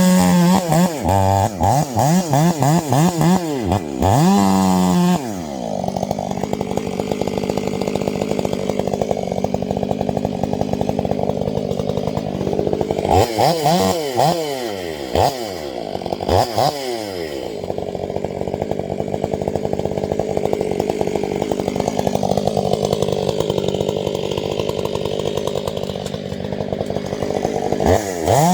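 Chainsaw running hard, with a quick series of throttle blips at the start, more in the middle and again near the end. Between them it runs more steadily at lower engine speed for several seconds at a time.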